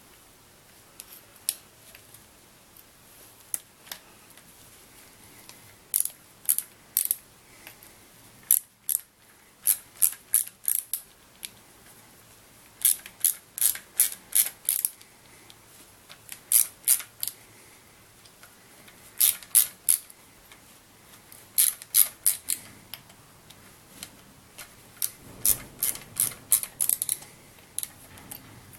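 Ratchet wrench clicking in short runs of a few quick clicks with pauses between, as bolts are undone in removing the engine's exhaust camshaft.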